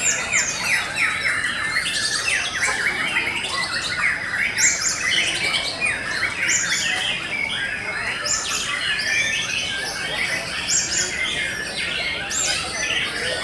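White-rumped shamas singing at once, a dense mix of overlapping rapid whistled phrases.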